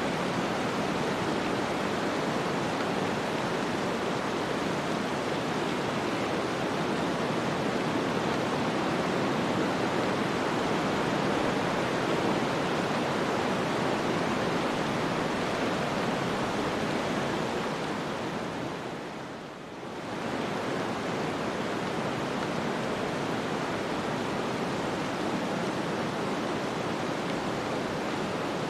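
Snowstorm wind, a steady dense hiss without distinct gusts or events. It dips briefly about two-thirds of the way through, then comes back up.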